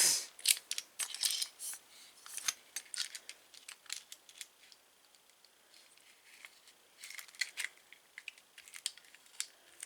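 Clicks and light metallic knocks of a Schlage keyed door knob assembly being handled, with a quieter stretch midway and a cluster of clicks near the end.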